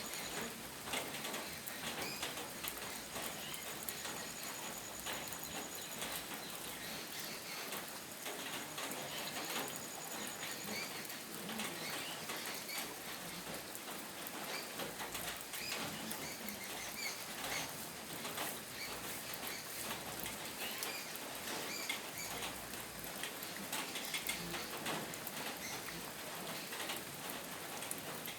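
Steady rain, many drops pattering densely on surfaces. A thin high whine comes and goes over the first ten seconds or so.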